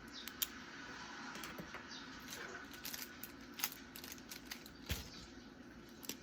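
Desk-work sounds of someone studying: irregular light clicks and taps from a pen and stationery, the sharpest about half a second in. Underneath is a steady, faint rain ambience.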